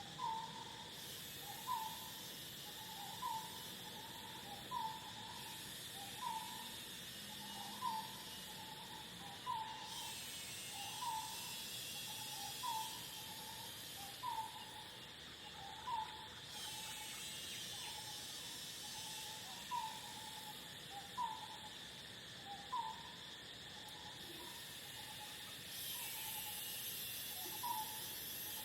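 A bird repeating one short, clear note about every second and a half, over a steady chorus of crickets.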